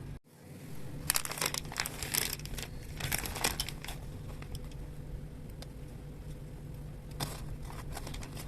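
Crinkly packaging rustling as it is handled, in clusters of short crackles from about one to four seconds in and again briefly near the end.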